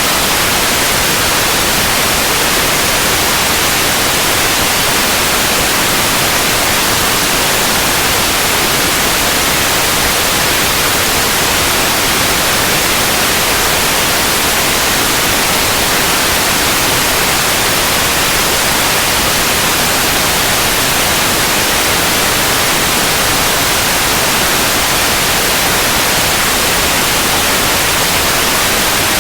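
Steady white noise: an even, unbroken hiss across the whole range, brightest in the treble.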